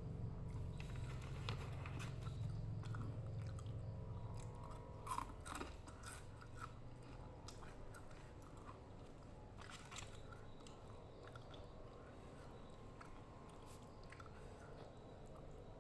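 A person chewing rujak (rice cake, cucumber and vegetables in sambal), with scattered crunches and small wet mouth clicks. A low hum underneath fades out about halfway through.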